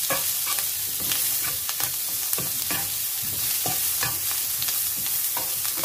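Baby asparagus and chopped garlic sizzling in butter in a frying pan, with a steady hiss. Wooden chopsticks tap and scrape against the pan at irregular intervals as the spears are stirred.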